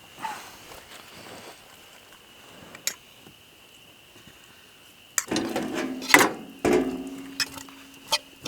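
Metal utensils clinking and scraping against a cooking pan of potatoes and kielbasa: one click about three seconds in, then a run of clatters in the last few seconds.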